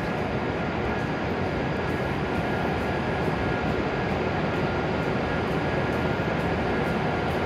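Steady whir of a stationary E7-series Shinkansen train's onboard equipment, with a faint, steady high whine running through it.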